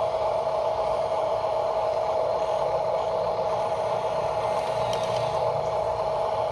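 Radio-controlled construction model running: a steady electric motor whine with rattling and scraping.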